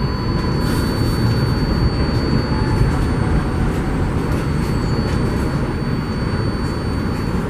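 Subway train running through an elevated station: a steady, loud rumble with a thin, steady high whine over it.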